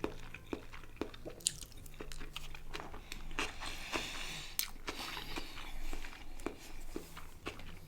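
Close-miked eating sounds: a person chewing and biting food, with many short wet smacks and crunches.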